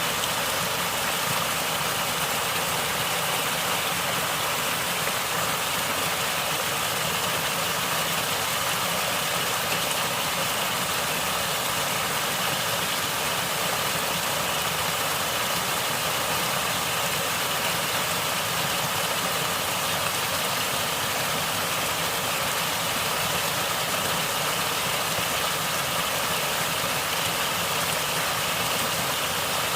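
Natural water flowing and gurgling, a steady, unbroken rush.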